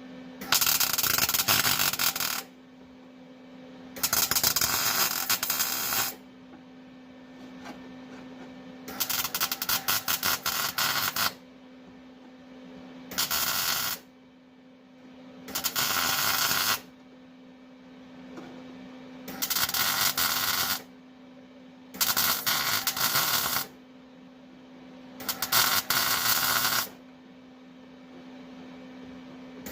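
Electric welder laying a series of short welds on thin sheet-metal patch panels: eight bursts of arc crackle, each one to two and a half seconds long, with short pauses between. A steady low hum runs underneath.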